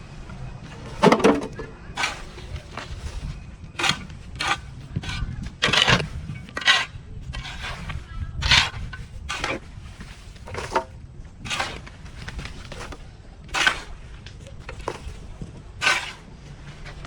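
Hand tools working through overgrown grass and weeds: an irregular series of short scraping and chopping strokes, roughly one a second.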